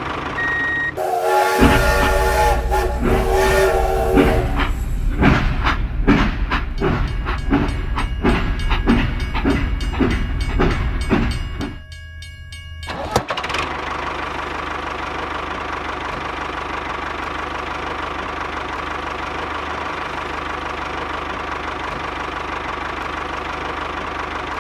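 A whistle sounds as a held chord for about three seconds, then a rhythmic clacking follows at about two to three strokes a second, like a train running over rail joints. After a short drop near the middle, a steady mechanical hum with one held tone runs on.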